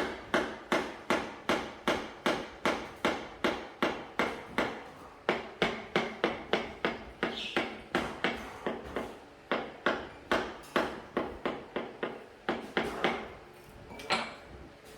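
A hammer striking in a quick, steady rhythm of about three sharp blows a second. There is a short break about five seconds in, and the blows stop about a second before the end.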